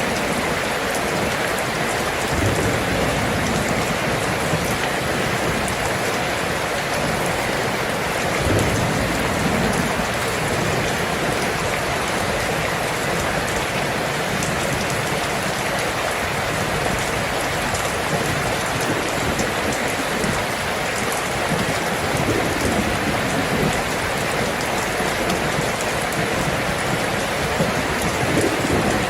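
Steady heavy rain falling on a surface, an even hiss of dense drops, with a few brief low rumbles in the background.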